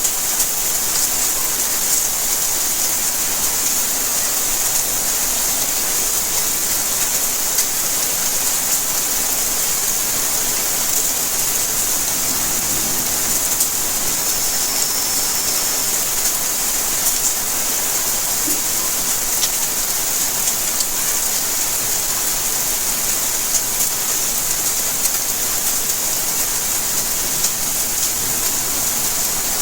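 Steady rainfall: an even hiss of rain with many sharp ticks of single drops landing on surfaces.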